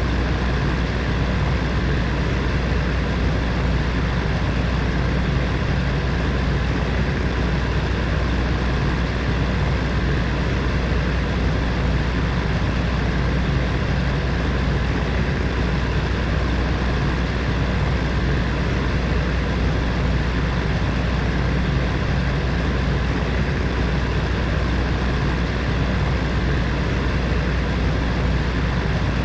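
Space heater's fan running steadily: an even whooshing rush of air with a low hum underneath, unchanging throughout.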